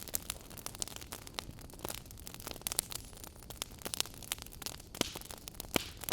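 Wood fire crackling in a fireplace: irregular sharp pops and snaps, several a second, over a steady low hiss and rumble of the burning logs.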